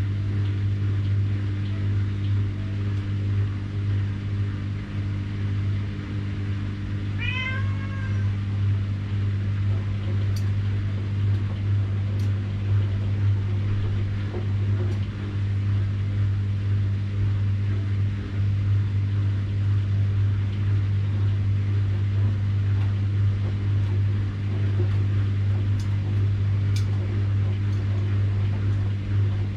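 Washing machine running with a steady low hum. A cat meows once, briefly, about seven seconds in, and there are a few faint clicks.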